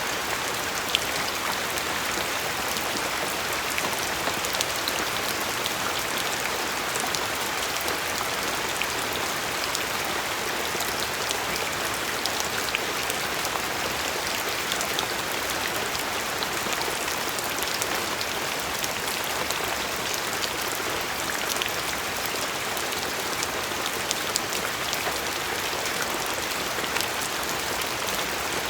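Steady rain falling on a surface: an even hiss with many distinct drops ticking through it.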